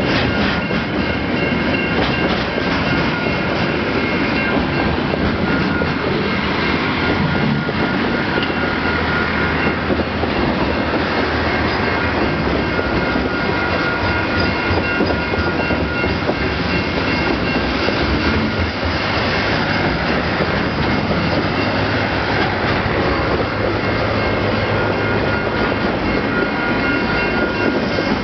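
Loaded container wagons of a freight train rolling past close by over the level crossing, a steady rolling rumble and wheel noise that stays even throughout.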